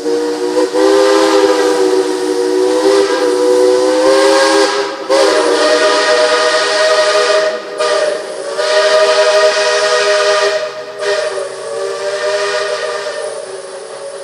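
Steam locomotive's chime whistle blowing a run of long blasts, several notes sounding together as a chord that shifts higher about five seconds in, over steam hiss. The whistle fades near the end.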